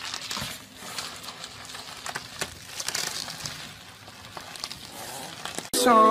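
Plastic bubble wrap crinkling and crackling with scattered sharp clicks as a small dog wriggles and rolls inside it on carpet. Near the end, louder music with singing cuts in abruptly.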